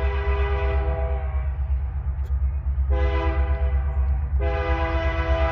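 Diesel locomotive air horn sounding a chord in three blasts: one trailing off about a second in, a short one around three seconds in, and a long one from about four and a half seconds on, over a steady low rumble.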